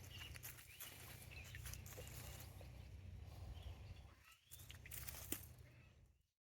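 Faint animal calls over a low steady hum, cutting off abruptly near the end.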